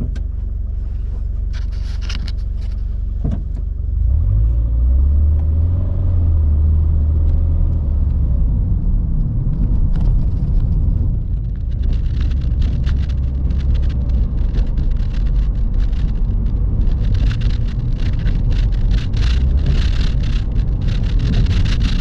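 Toyota 86's 2.0-litre flat-four engine idling through an HKS aftermarket muffler: a steady low exhaust rumble that gets louder about four seconds in. Irregular scratchy noise rides over it through the second half.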